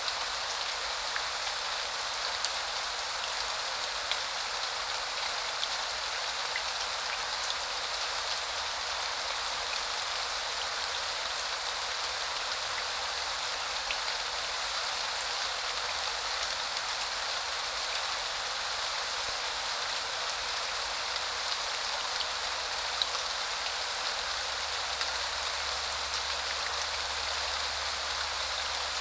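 Steady rain falling: an even hiss with scattered sharp ticks of single drops, and very little low rumble.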